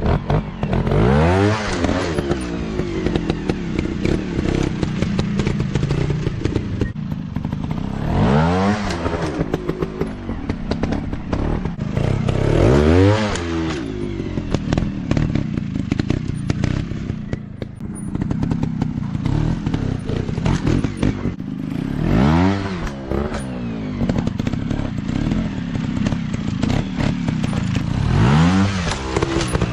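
Off-road dirt bike engines running hard, revving up and back down about five times, each rev a rising then falling pitch, over constant rattling and knocking.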